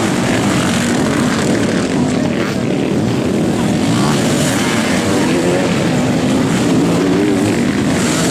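Engines of several sidecar motocross outfits running hard at once. It is a loud, steady drone whose pitch wavers up and down as the riders rev through the climb.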